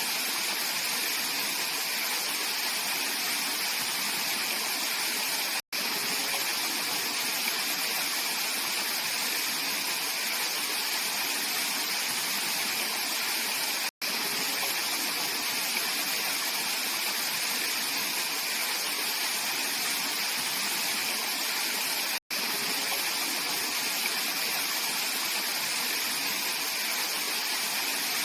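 Mountain valley stream flowing steadily over rocks, a bright, constant rush of water. It cuts out for an instant three times.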